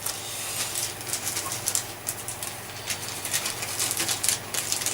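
Handling noises while the vacuum's drive belt is being changed: a quick, irregular run of small rustles and light clicks.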